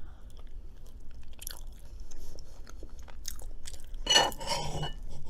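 Close-miked chewing: soft wet mouth clicks and crunches as food is eaten, with a short, louder noisy stretch about four seconds in.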